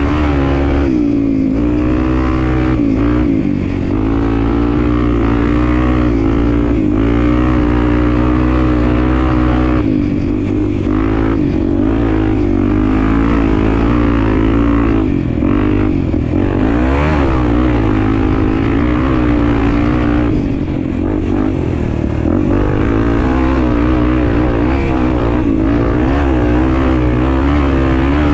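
Honda XR250 Tornado's single-cylinder four-stroke engine running while riding, its revs rising and falling with the throttle, with several brief dips as the throttle is closed.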